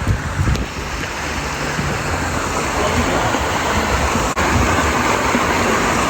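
Steady rush of water, as from water pouring down a water slide into a pool, with low rumbling bumps on the microphone in the first second.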